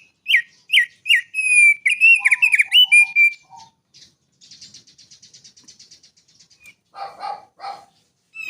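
Male thick-billed white-eye singing: about three seconds of loud, quick whistled notes, each dropping sharply in pitch. A faint, rapid trill follows, and three harsher notes come near the end.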